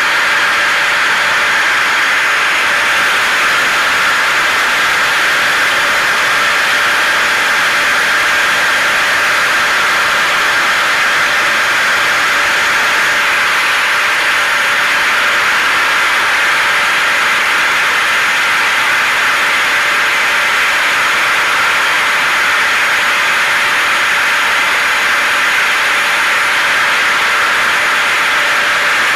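Steady blend of hair dryer, vacuum cleaner and car noise layered as a white-noise track: an even, unbroken whoosh with a faint steady hum, never changing in level.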